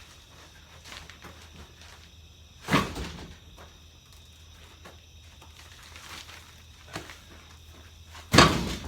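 Two heavy thuds about five and a half seconds apart, the second the louder, each dying away quickly, with a light knock shortly before the second.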